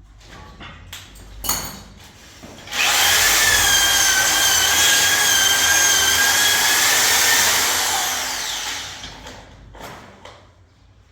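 Handheld electric drill running at speed with a steady whine for about five seconds, then winding down. A short knock comes just before it starts.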